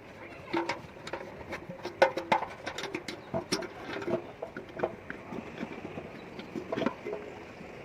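Irregular light clicks and knocks of metal parts being handled and fitted together: a satellite dish's metal arm and its fittings being put back on.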